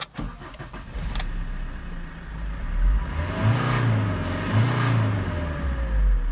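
Fiat 1.3 JTD four-cylinder turbodiesel running and revved up twice in quick succession, each blip rising and falling back to idle. Two sharp clicks come near the start.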